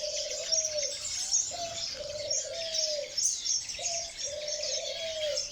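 A dove cooing three times, each coo a short note followed by a longer falling note, over the constant high chirping of many small finches in an aviary.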